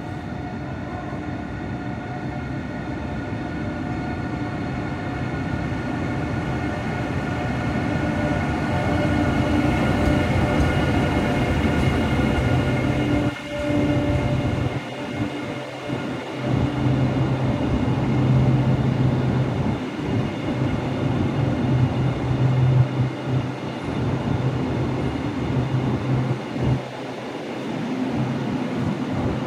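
A CR200J Fuxing push-pull passenger train pulling into the platform. A steady whine of several tones over a rumble grows louder for the first ten seconds or so as the train approaches. The coaches then roll past with an uneven rumble of wheels on rail.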